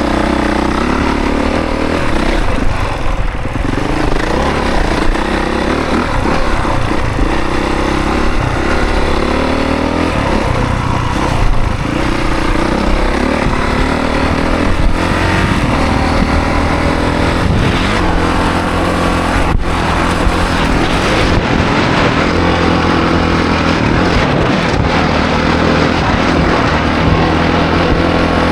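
Honda CRF450 dirt bike's single-cylinder four-stroke engine under riding load, revving up and falling back again and again as the throttle opens and closes and the gears change.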